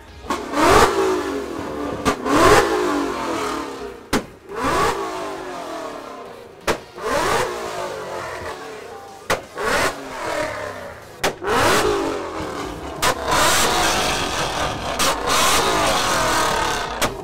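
A car's engine revved hard over and over, each rev climbing quickly and falling back, then held up at high revs for several seconds near the end.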